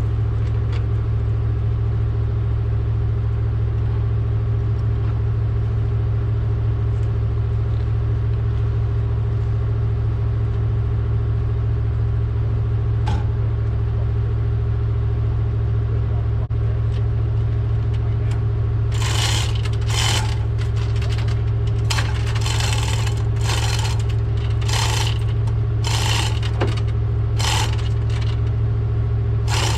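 A vehicle engine idling steadily, a constant low drone. From about two-thirds of the way in, a run of sharp metallic clinks and rattles comes over it.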